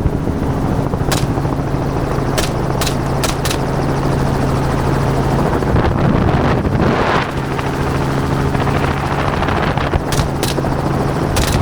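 Helicopter engine and rotor running steadily, with a string of sharp gunshot cracks in the first few seconds and a few more near the end as the shooters fire from the helicopter at a hog.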